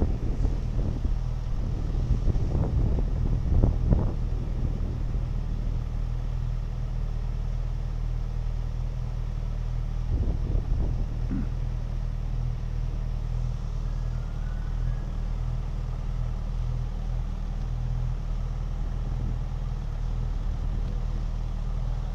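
A car running with a steady low engine and road hum, with a few short knocks in the first few seconds and again about ten seconds in.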